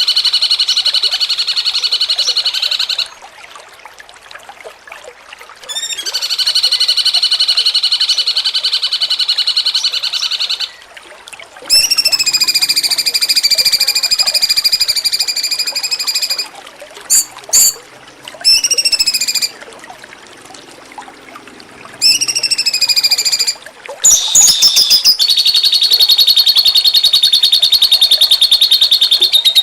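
Cucak cungkok singing loud, rapid trills, each phrase held for several seconds, several of them starting with a quick downward sweep, separated by short pauses. A couple of short sharp chirps fall in the middle.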